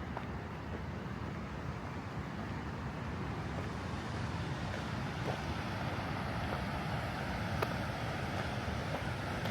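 Steady rush of snowmelt-swollen mountain water, growing slightly louder, with a few faint ticks.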